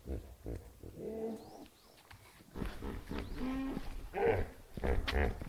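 A string of short animal calls, one after another, with a low rumble underneath.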